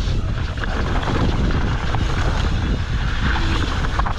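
Wind buffeting the microphone and mountain bike tyres rolling over a rocky dirt trail, a constant rumble broken by many short clicks and rattles.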